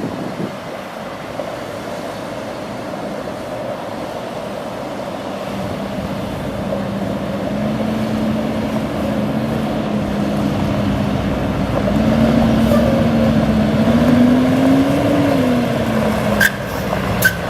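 Caterpillar C7 diesel engine of a Ford F750 truck running and growing louder, its pitch rising briefly near the end and settling back. Two sharp clicks follow.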